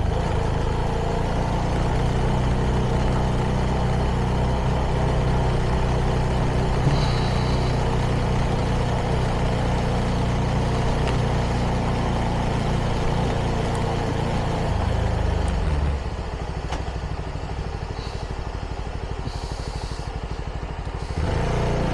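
CFMoto 300NK single-cylinder engine through its stock exhaust, running steadily at low road speed, then dropping to a slower, evenly pulsing idle about 16 seconds in and picking up again near the end.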